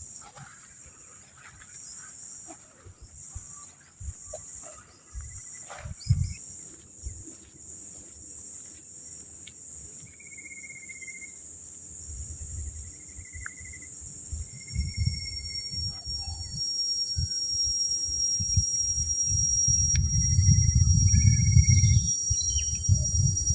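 Steady high-pitched drone of crickets and other insects, with a few short, flat whistled notes, likely a bird calling, in the second half. A low rumble on the microphone grows louder toward the end.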